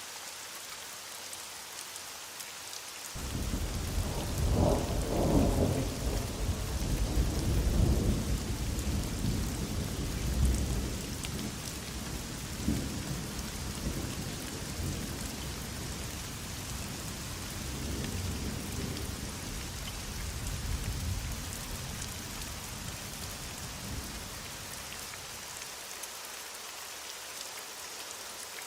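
Heavy rain falling steadily, with a long roll of thunder that breaks in suddenly about three seconds in, rumbles loudest over the next several seconds and dies away well before the end.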